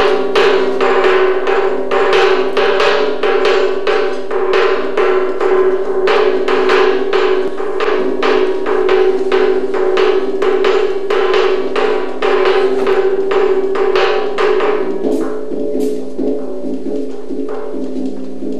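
Percussion music for a dance piece: rapid repeated strikes, about two a second, over a sustained low drone. The strikes thin out near the end while the drone continues.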